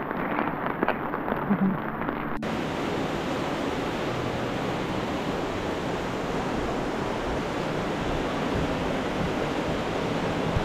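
Steady rushing roar of a waterfall's falling water, starting suddenly at a cut about two seconds in. Before it there are a few light clicks over a muffled background.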